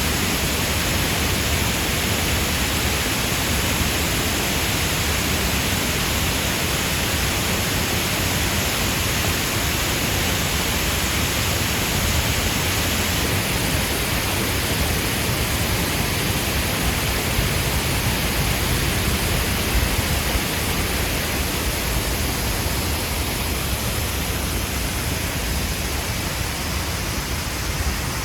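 Artificial waterfall pouring down a tall cliff face: a steady, unbroken rush of falling water.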